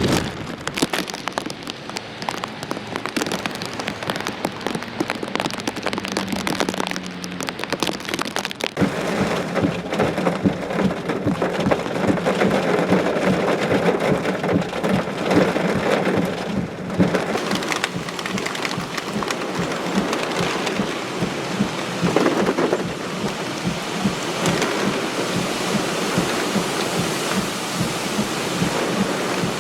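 Heavy rain from a hurricane, falling hard and steadily. A low steady hum joins about nine seconds in.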